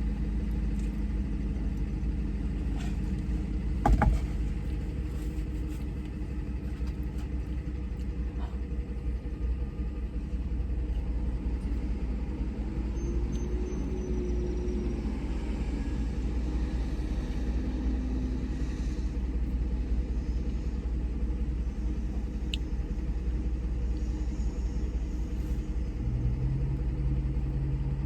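Car running, heard from inside the cabin as a steady low rumble, with a single sharp click about four seconds in.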